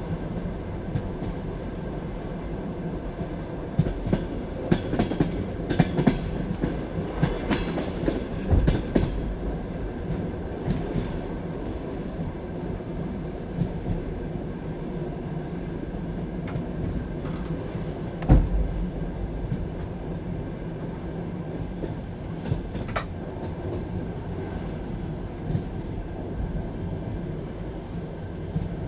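Passenger train carriage running along the track: a steady rumble of wheels on rails. There is a run of sharp clicks from the wheels crossing rail joints from about four to nine seconds in, and one heavy knock a little after the middle.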